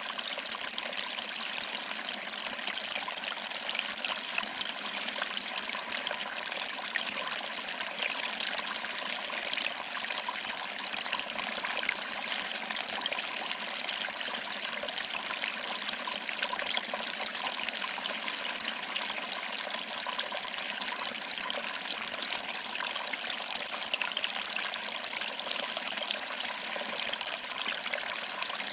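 Small waterfall: water trickling over rocks and splashing into a small pool, a steady, even rush.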